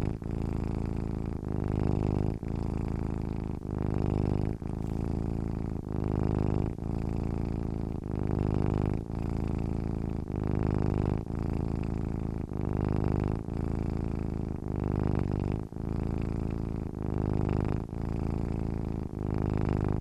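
A sleeping domestic cat purring steadily. The purr swells and dips in an even rhythm, about once a second, with each breath in and out.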